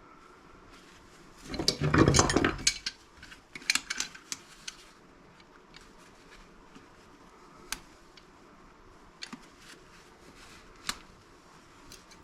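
Metal scrap parts clattering and clinking as they are handled and dropped: a loud clatter about two seconds in, a few more clinks soon after, then scattered single clicks.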